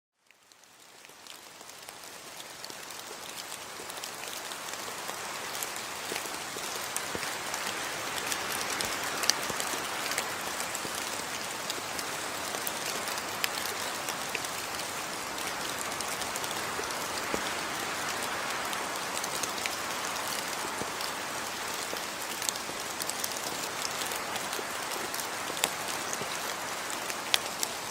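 Steady rain falling, an even hiss with scattered sharp drop ticks. It fades in over the first few seconds.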